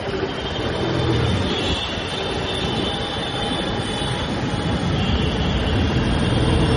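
Royal Enfield Classic 350's single-cylinder engine and exhaust running on the move, gradually getting louder, with a constant rush of road noise.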